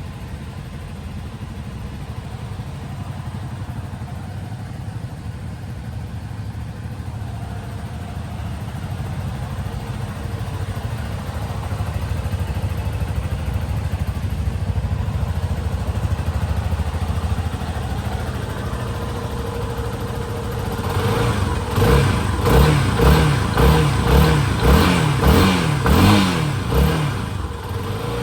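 Motorcycle engine idling after a cold start from long storage. About three quarters of the way through, it is revved in a quick series of about nine short throttle blips, roughly two a second, then drops back to idle.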